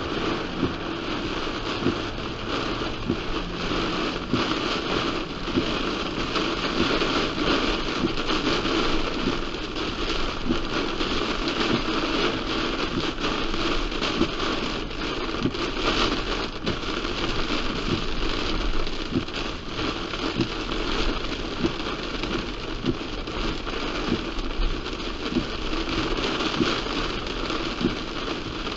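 Heavy rain hitting a car: a steady hiss full of many small individual drop taps, with a faint low hum underneath.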